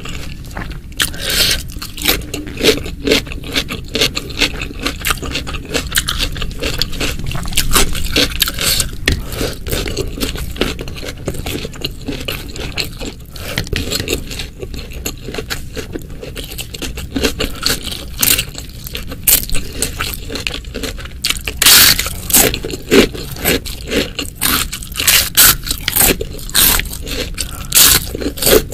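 Close-miked eating: crunchy food being bitten and chewed in quick, crackly crunches, with the loudest bites about two-thirds of the way in.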